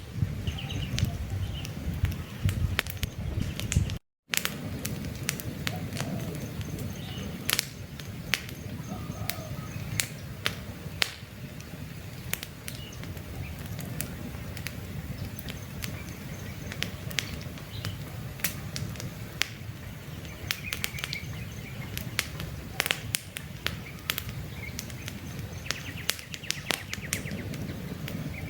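Campfire burning with frequent sharp crackles and pops over a low steady rustle of flame, with faint bird chirps now and then. The sound drops out for a split second about four seconds in.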